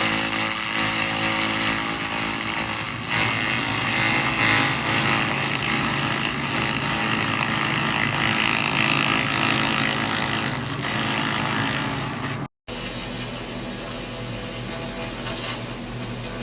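SFX 2000 laser rust remover stripping rust off metal: a steady hissing, crackling buzz. It cuts off abruptly about twelve seconds in and comes back a little quieter.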